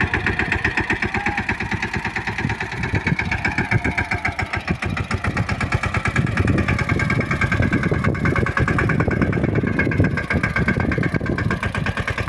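Mahindra 215 tractor's single-cylinder diesel engine running steadily, with rapid, even firing pulses.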